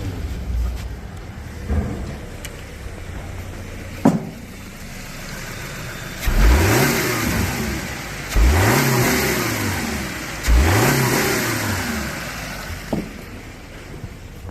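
Subaru FB16 1.6-litre flat-four engine idling, then revved three times in quick blips about two seconds apart, each rising sharply and settling back to idle. A sharp click about four seconds in and another near the end.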